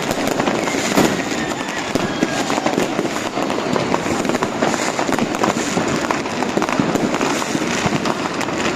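New Year's Eve fireworks and firecrackers going off all around in a dense, continuous crackle of bangs, with a louder crack about a second in and a faint rocket whistle soon after.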